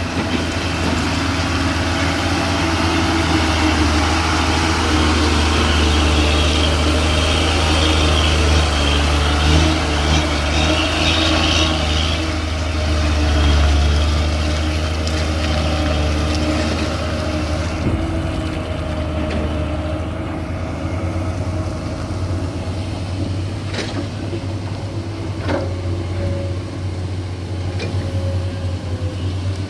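Heavy diesel machinery engine running with a steady low drone that drops away about eighteen seconds in. A couple of sharp knocks come a few seconds later.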